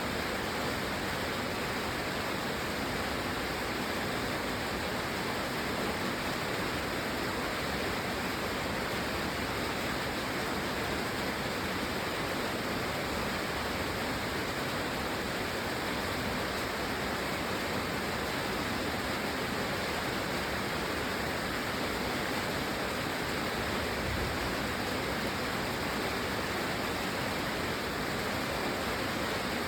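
Steady heavy rain, an even unbroken hiss with no single drops, thunder or other events standing out.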